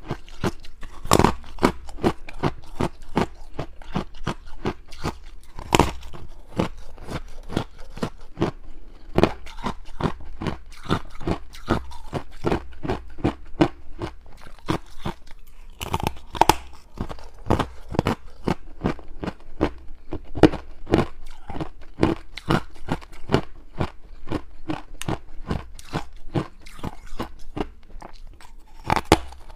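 Close-up crunching as a person bites and chews deep-frozen ice rings: dense, irregular crisp cracks, several a second, with a few louder bites now and then.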